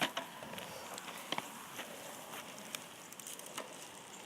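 Huffy mountain bike being moved over rough ground: scattered light clicks and crackles at irregular intervals, with no brake squeal.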